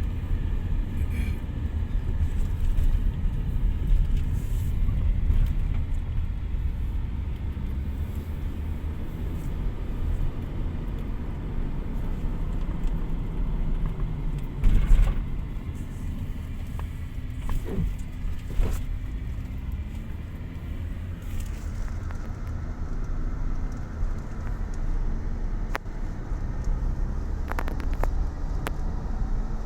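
A steady low rumble of a vehicle driving, with a short knock about halfway through.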